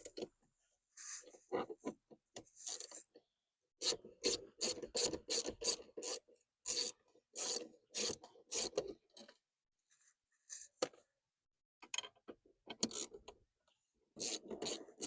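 Short rasping scrapes, first scattered, then in a quick run of about two a second, then scattered again near the end, as parts are worked in and around a car's steering column.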